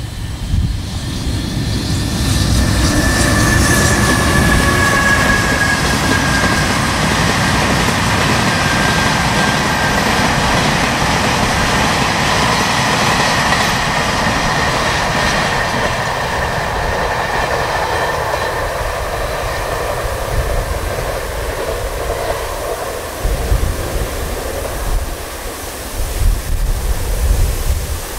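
Freight train of Taki 1000 oil tank cars rolling past behind an electric locomotive: a steady rumble and clatter of steel wheels on the rails, with a thin high steady ringing over it in the first third. The sound slowly fades as the train moves away, and low gusty rumbles come in near the end.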